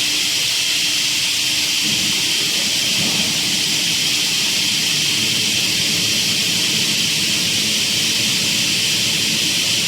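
Steady, constant high hiss of workshop machinery running, with no cutting strokes and no change in level.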